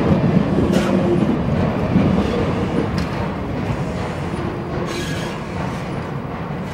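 Steam-hauled heritage train rolling along the track: a steady rumble with occasional sharp clicks of wheels over rail joints, easing slightly in level toward the end.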